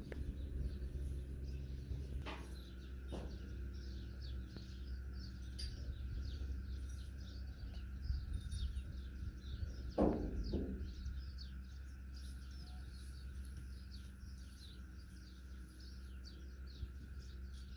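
Many small birds chirping busily and continuously over a steady low background hum, with a brief louder sound about ten seconds in.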